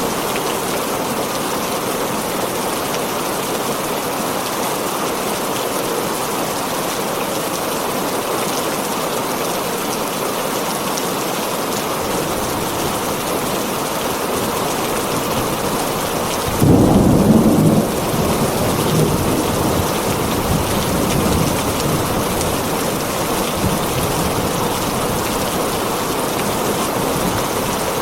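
Heavy rain falling steadily on a tin roof during a thunderstorm. A loud low clap of thunder breaks in about seventeen seconds in and lasts about a second, and low rumbling lingers under the rain afterwards.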